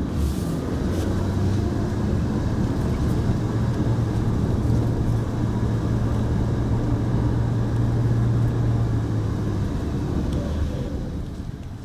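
Mitsubishi Pajero Mini driving, heard from inside the cabin: a steady engine drone over tyre and road noise that eases off in the last couple of seconds as the engine drops back.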